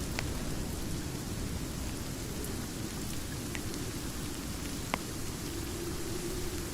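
Steady rain ambience with a deep rumbling undertone, and now and then a sharp pop from a crackling fireplace.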